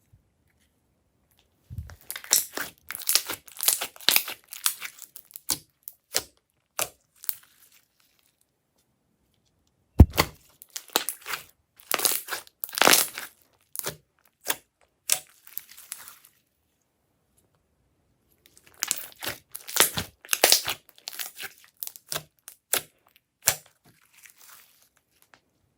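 Clear slime being squeezed and pressed, crackling and popping with trapped air, in three bursts of a few seconds each with pauses between.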